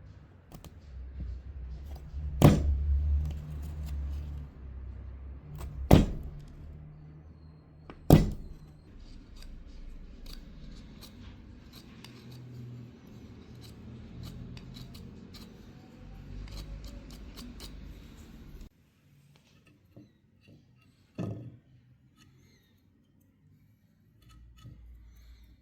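Three loud, sharp knocks a few seconds apart over a low steady hum, with lighter clicks and handling noise in between. The hum cuts off abruptly about two-thirds of the way through, leaving near quiet with one faint knock.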